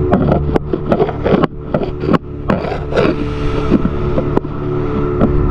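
Motorboat engine running steadily under way, with many short sharp knocks scattered through it.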